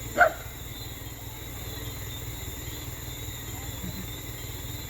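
Low steady rumble of a large truck's engine running, with night insects chirping steadily. One short loud sound comes just after the start.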